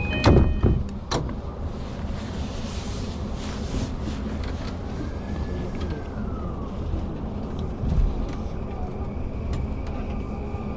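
Commuter train running, heard from inside the car: a steady low rumble, with two sharp knocks just after the start and a tone that glides up and back down about midway.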